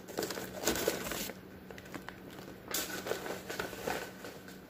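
Plastic meal-kit bags crinkling and rustling as they are handled, in two short spells with a quieter gap between.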